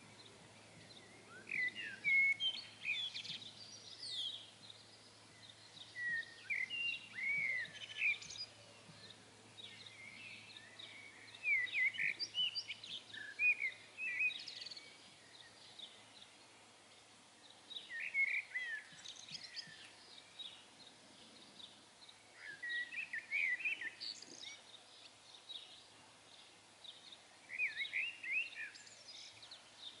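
Songbird song: short phrases of quick, varied chirps and whistles, repeated every few seconds with pauses between, over faint steady outdoor background noise.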